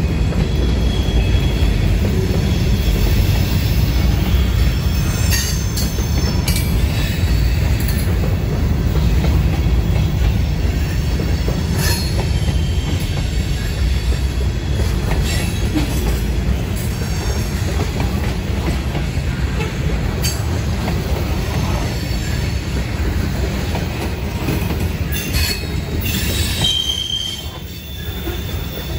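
Freight train of coil steel cars and covered hoppers rolling past close by: a steady low rumble of wheels on rail, with short bouts of high-pitched wheel squeal and occasional sharp clicks.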